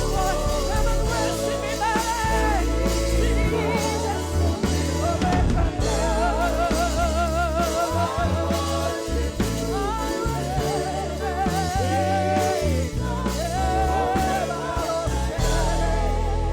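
Gospel praise-and-worship music: a singer holding long notes with a wide vibrato over a band with strong bass.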